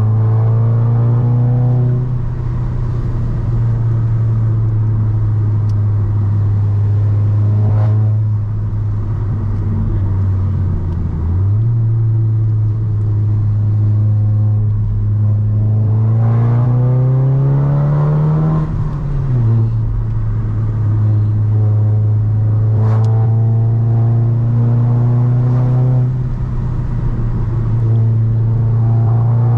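Golf 7R's 2.0-litre turbocharged four-cylinder engine running steadily under way. About a third of the way in its note dips briefly and comes back. A little past halfway it climbs in revs for a couple of seconds, then falls sharply at a gear change.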